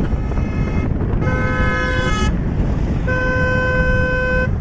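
A vehicle horn sounds twice, two steady blasts of about a second each, the second a little longer, over continuous road and engine noise.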